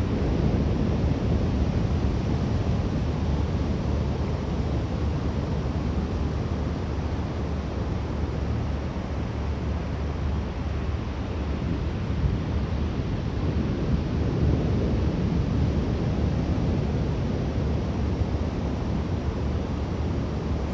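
Steady wind buffeting the microphone over the low rumble of rough surf breaking on the beach.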